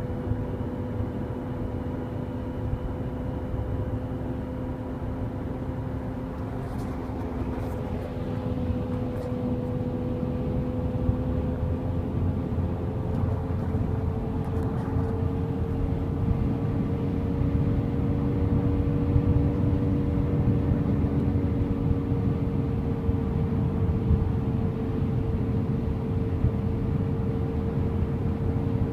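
Acura TSX (seventh-generation Honda Accord) driving, with steady road rumble and a droning hum whose pitch drifts slowly with speed: the extraneous noise the owner puts down to the drive axle.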